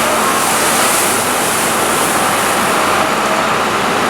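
Heavy farm machinery engines running steadily at a maize silage harvest: a loud, unbroken hiss of engine noise.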